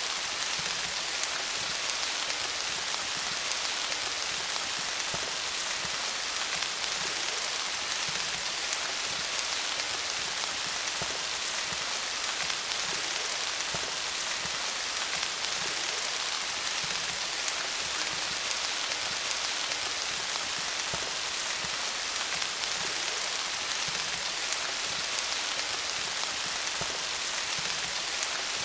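Steady rain falling on leaves, a dense even patter of many small drops.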